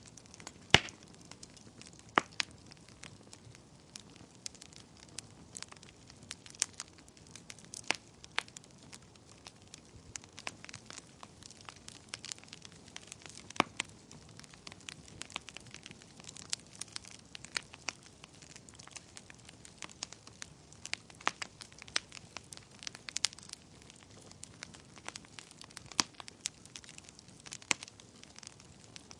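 Wood fire burning in a fireplace: irregular sharp crackles and pops over a faint hiss of flame, with the loudest pop about a second in.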